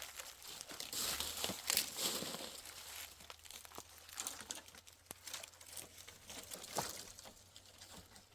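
Dry rustling and crackling with many small irregular clicks, busiest in the first few seconds: something dry being handled or crumpled.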